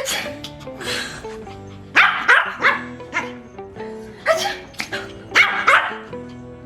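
Pomeranian barking in short, sharp yaps, about ten of them in irregular clusters.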